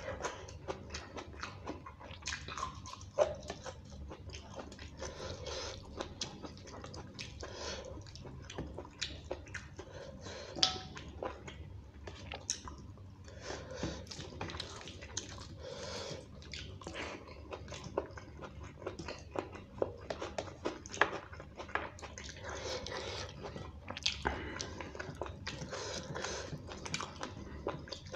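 Close-miked wet chewing and lip-smacking of rice and beef curry, with fingers squishing and mixing the rice on a steel plate: a dense run of small sharp clicks and smacks with a few louder ones, over a steady low hum.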